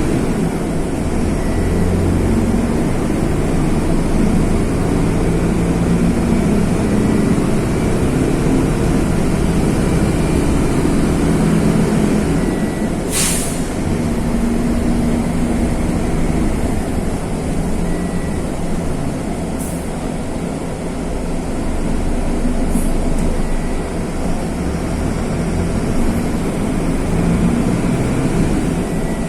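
Mercedes-Benz OF-1519 bus's OM-924 LA four-cylinder turbodiesel running under way, a steady low drone whose pitch shifts with speed and load. A short hiss of air about thirteen seconds in.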